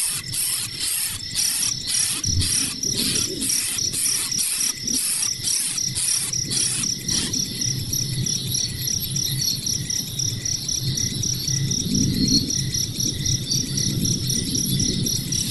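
Insects chirping in a steady rhythm, about three pulses a second. About seven seconds in, the chirping changes to a finer, faster high pulsing.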